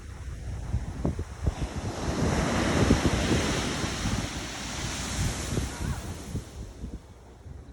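Pacific Ocean wave breaking and washing up the shore, swelling about two seconds in and fading away near the end. Wind buffets the microphone underneath.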